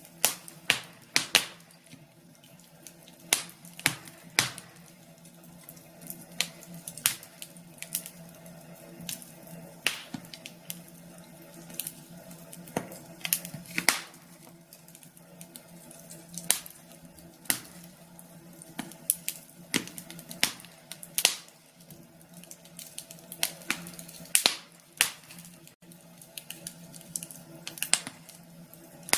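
Wood fire burning in a fireplace, crackling and popping in sharp irregular snaps, over a faint steady hum.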